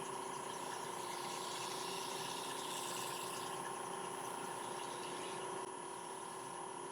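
Wood lathe running steadily at about 800 RPM, a constant hum with two steady tones, as a wad of paper towel buffs wax on the underside of the spinning damson bowl.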